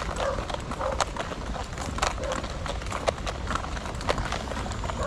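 Footsteps in boots crunching and knocking on stones and gravel, in an uneven walking rhythm.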